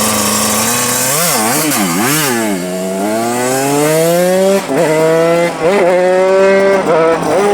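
125cc two-stroke single-cylinder motorcycle engine, ridden: three quick throttle blips about a second in, then pulling up through the gears, the pitch climbing and dipping briefly at each shift.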